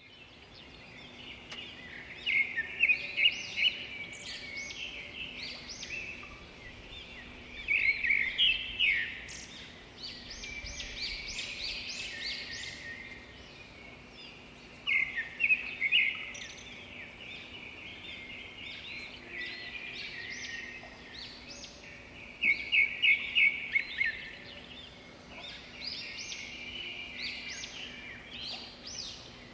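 European robin singing: a series of high, varied song phrases, several opening with quick runs of loud notes, separated by short pauses. A faint steady low hum lies underneath.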